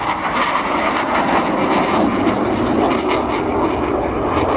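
Loud, steady noise of a Dassault Rafale fighter's twin jet engines flying a display, with a rough crackle through it.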